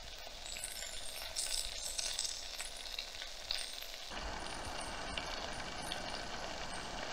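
Sliced sweet peppers and onions sizzling and crackling in hot oil in a camp pot. About four seconds in, a steadier, fuller hiss comes in from the gas canister stove's burner.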